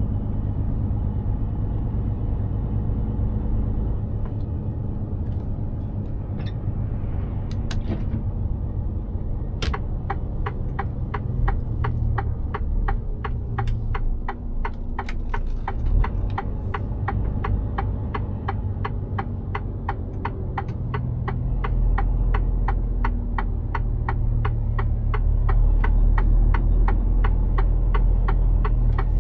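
Mercedes-Benz Actros 2763 truck's diesel engine running with a low rumble, heard from inside the cab. About ten seconds in, the turn-signal indicator starts ticking evenly, about two ticks a second, and keeps going; the engine rumble grows louder about two-thirds of the way through.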